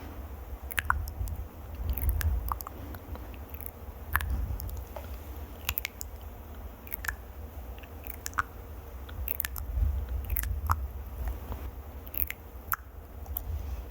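Close-miked ASMR trigger sounds: irregular crisp clicks and crackles over a low rumble, with no rhythm.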